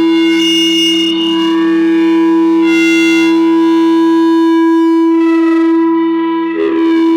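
No-input mixer feedback drone from a two-channel mixer looped through an effect pedal: one loud steady tone under a shifting stack of high, ringing overtones. A lower tone fades out about a second in, and near the end the tones briefly break up and settle into a new set.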